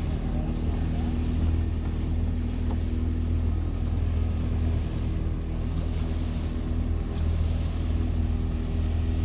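Motorboat engine running at a steady speed, a constant low hum, with wind and water noise under it.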